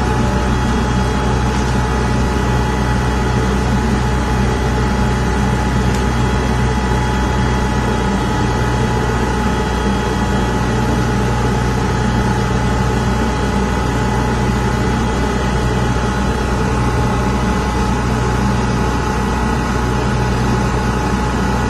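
GTI Model 3990 aerosol photometer running after start-up: a steady mechanical hum with a few constant whining tones, from its internal pump and fan.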